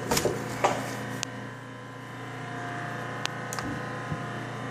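Short clicks and scraping knocks as the spreader combs are pulled out of an Aprilaire 201 media filter, loudest in the first second, with a few more clicks later. Under them runs a steady machine hum, a refrigerant recovery machine running.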